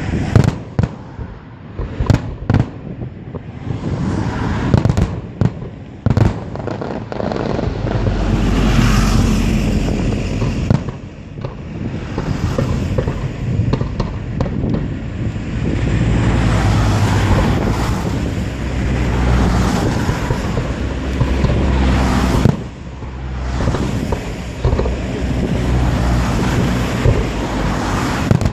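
Aerial fireworks display: separate sharp bangs of shells bursting in the first few seconds, then a dense, continuous barrage of booms and crackling.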